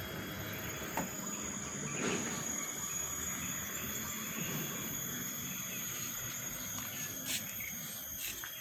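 Steady outdoor background with high, continuous insect-like trilling and a few faint clicks.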